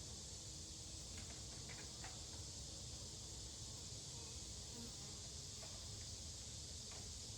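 Honeybees buzzing faintly and steadily around an opened hive, over a steady high hiss and a few faint ticks.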